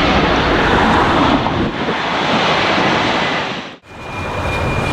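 Wind buffeting the microphone: a loud, dense rushing noise that cuts out abruptly for an instant near the end, then returns.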